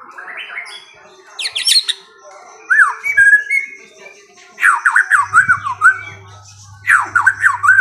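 A songbird singing loud, varied phrases. A few rising notes open it, then a burst of sharp downward-sweeping notes comes about a second and a half in. In the second half, two rapid runs of falling whistled notes come at about five and seven seconds.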